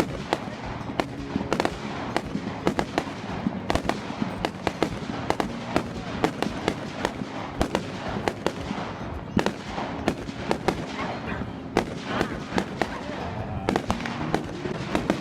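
Firework display: a dense, continuous run of sharp bangs and crackles from exploding aerial shells, several a second.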